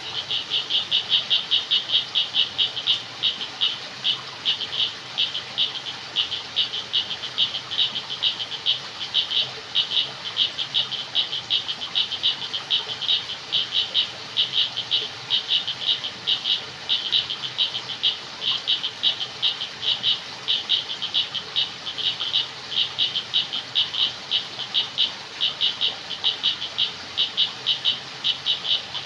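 Frogs calling at night in a chorus of rapid, high pulsed trills that repeat over and over, over a faint background hiss.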